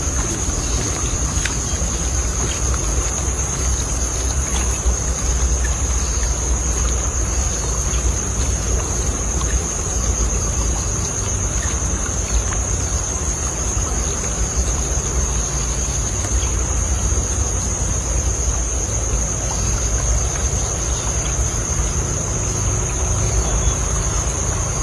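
Steady outdoor background noise: a low rumble with a continuous high, even whine over it.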